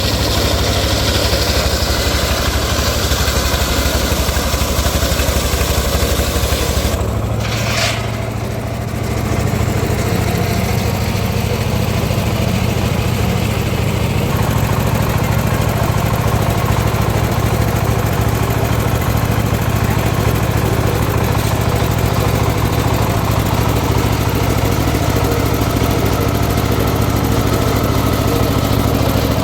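Engine of a homemade circular sawmill running steadily. About a quarter of the way in, its note shifts slightly higher and dips briefly, then settles again.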